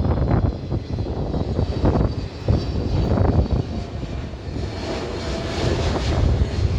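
Jet airliner on approach passing overhead: a heavy, fluctuating engine rumble, with a rising hiss building in the second half.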